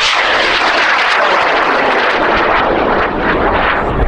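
High-power rocket's M-class solid motor firing at liftoff: a loud, rough rushing noise that comes on abruptly just before and eases slightly near the end as the rocket climbs away.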